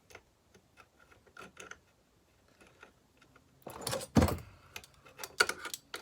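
Light metal clicks and clinks of a spark plug and its lead being set against a Homelite XL-12 chainsaw for a spark test, with a louder clatter a little after halfway and a quick run of clicks near the end.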